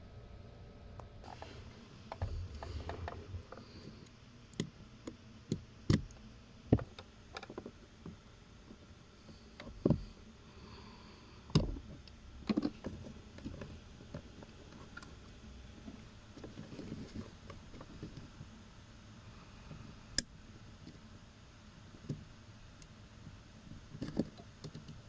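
Hand work on car interior parts: scattered clicks, knocks and rustling of tools and plastic pieces being handled, with several sharp knocks.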